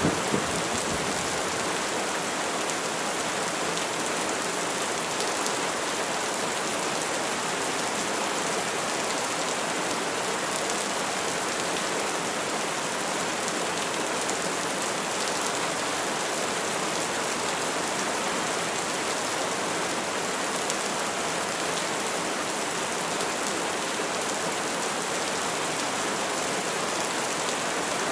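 Steady rain falling on a surface: an even, unbroken hiss of dense raindrops.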